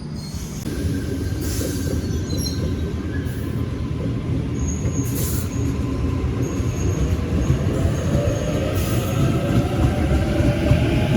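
Electric suburban train running through the station: a steady, dense rumble with faint high squeals, and a motor whine that rises in pitch over the last few seconds as the train picks up speed.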